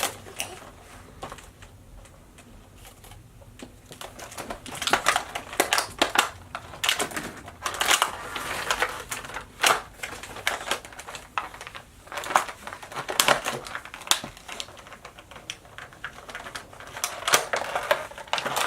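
Plastic toy packaging being handled: irregular clicks, snaps and crinkles as the toy is worked free of its box.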